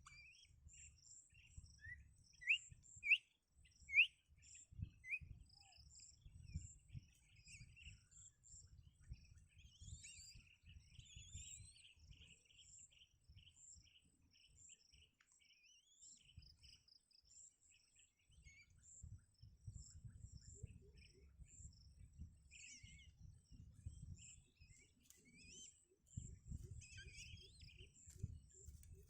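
Birds chirping: four loud, short rising chirps in the first few seconds, then a run of fast, fainter chirping and scattered chirps later. Behind them a steady, evenly pulsing high insect-like chirp runs on, with low rumbling.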